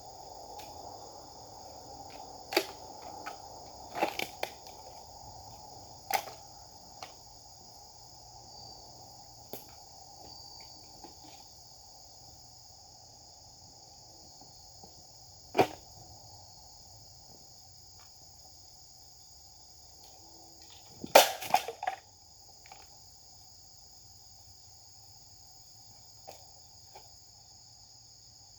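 Insects singing steadily in a high drone, broken by a handful of sharp swishing cracks of a Japanese sword being swung and cutting: a few in the first six seconds, one around the middle, and the loudest, a quick double, about two-thirds of the way through.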